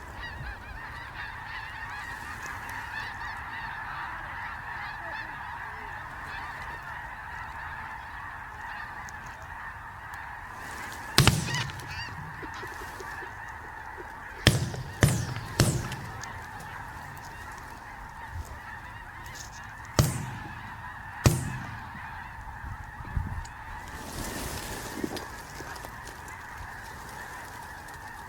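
A large flock of snow geese calling steadily in a dense, continuous din. Six loud shotgun shots cut through it: one about 11 seconds in, a quick string of three around 15 seconds, and two more around 20 seconds.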